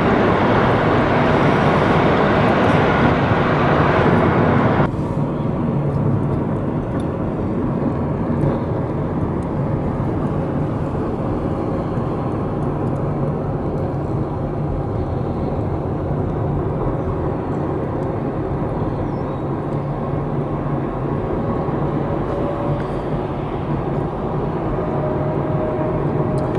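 Steady road and wind noise from a moving car heard from inside it. It is louder for the first five seconds or so, then drops suddenly to a lower, even level.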